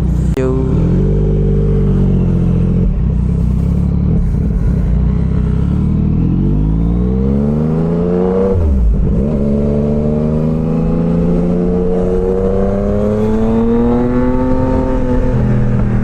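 Yamaha MT-09's three-cylinder engine pulling the bike along, its note climbing steadily for several seconds, dipping sharply and recovering about eight and a half seconds in, then holding and slowly rising again.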